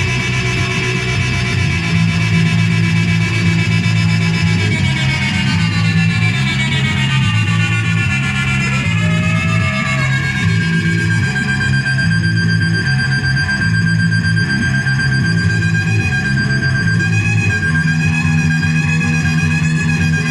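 Handmade synthesizer playing noise music: a low, buzzing pattern that switches back and forth between pitches every half second or so. Above it, layered high tones slide downward about a third of the way in and settle into a steady high tone.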